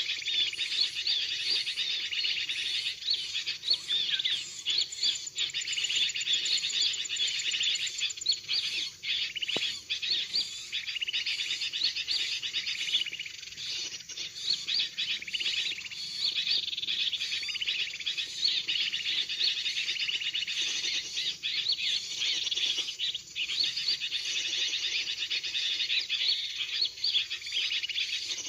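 Dense, unbroken chirping and twittering of small birds: a bird-lure call recording of 'kutilang ribut' bulbul calls mixed with small-bird chirps, played to draw birds in.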